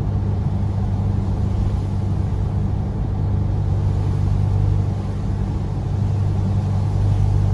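A Jeep's engine running at a steady speed while the vehicle drives along, a low, even drone.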